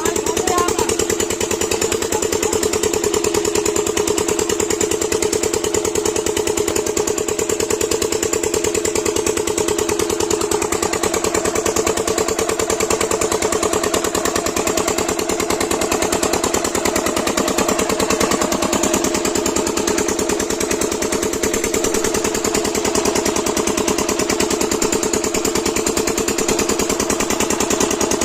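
A 7 HP single-cylinder diesel engine running steadily at an even, fast beat, driving a water pump set.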